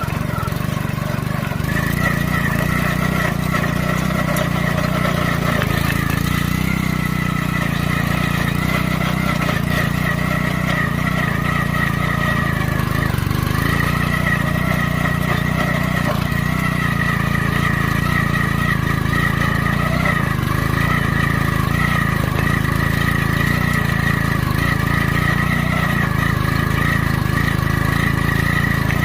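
Honda mini tiller's small petrol engine running steadily, with a steady high whine above the engine note.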